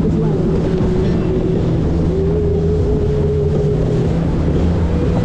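A 90-horsepower Evinrude outboard motor pushing an inflatable boat along under way: a steady drone whose pitch wavers slightly, over a constant rush of noise.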